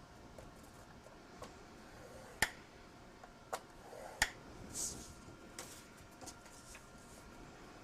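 Sharp, separate clicks and taps of paper and a scoring tool on a craft table while cardstock pieces are scored, with a brief scraping stroke a little before five seconds in.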